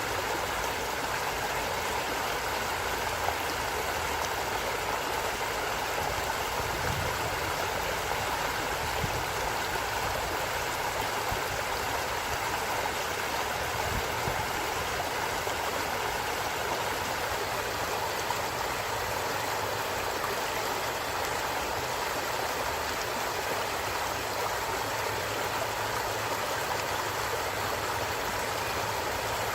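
Steady rush and babble of a forest stream flowing over stones.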